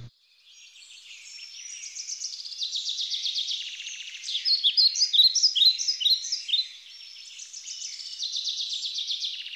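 Birds chirping and trilling: many rapid, high-pitched calls and short sweeping notes, loudest about halfway through.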